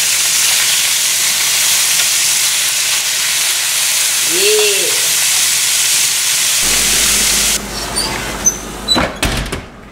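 Chicken thighs sizzling loudly in hot olive oil in a skillet as they are turned with tongs. About two-thirds of the way through the sizzle cuts off abruptly, and a few sharp clacks follow near the end.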